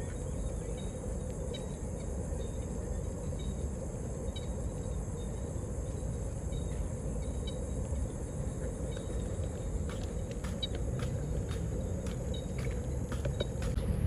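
Steady high-pitched insect trilling over a constant low rumble of distant city traffic, with a few faint clicks. The high trilling thins out shortly before the end.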